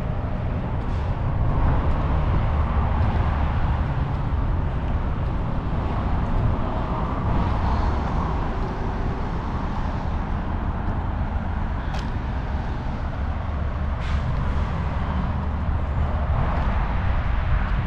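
Steady vehicle noise: a continuous low rumble with road or engine hiss, broken by a couple of brief sharp clicks.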